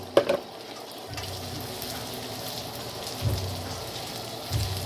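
Chicken pieces sizzling steadily in hot oil in a wok, with a sharp clack just after the start and two dull bumps later on.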